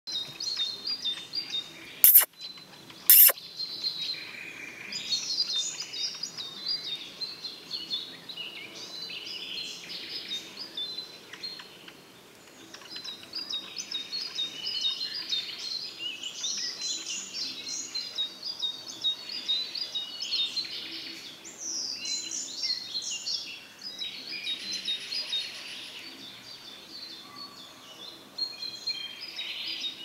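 Busy high-pitched bird chirping and calling without a break, with two sharp clicks about two and three seconds in.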